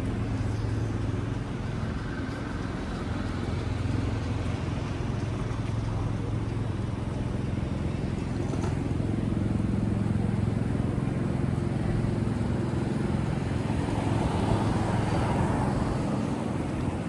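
Busy city street traffic: a steady mix of passing vehicles and general street noise.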